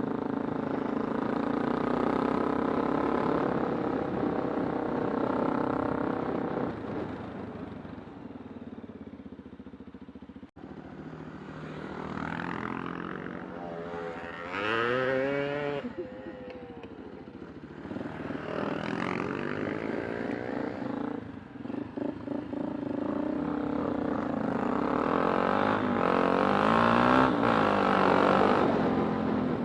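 Kawasaki Super Sherpa's single-cylinder four-stroke engine running under way, its pitch rising and falling as the throttle opens and closes. It eases off a quarter of the way in, then picks up again with several revs up and down.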